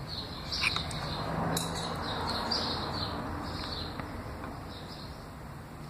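Small birds chirping over and over, short high chirps about once or twice a second, with a few light clicks of metal hand tools against the distributor in the first two seconds.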